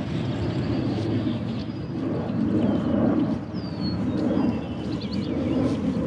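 Birds chirping faintly, a few short calls, over a steady low rumble.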